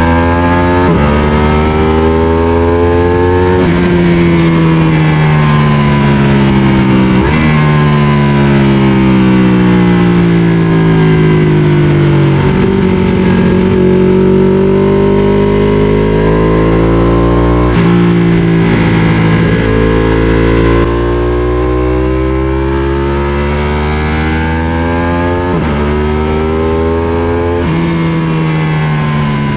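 Sport motorcycle engine at full revs on a track lap, its pitch repeatedly climbing under acceleration and falling off into corners, with several sudden pitch changes along the way.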